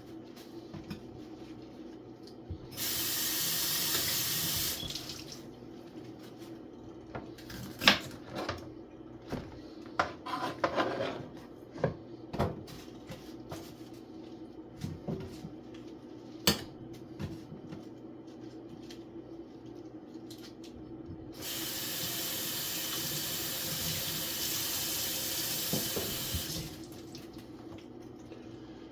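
Kitchen tap running into a sink twice, for about two seconds shortly after the start and for about five seconds later on. In between come scattered knocks and clatter of vegetables and a basin being handled.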